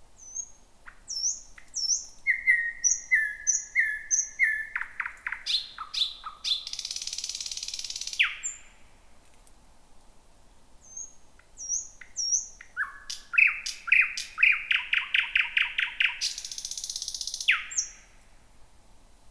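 Thrush nightingale singing: two song phrases, each building from short high whistled notes through a fast series of loud clicking strokes into a dry rattling buzz about a second long, then ending on a single short note.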